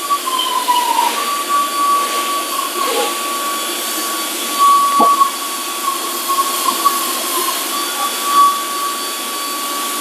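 Steady hiss with a high whine that wavers slightly in pitch, from a running motor such as a vacuum or blower; a single short knock about halfway through.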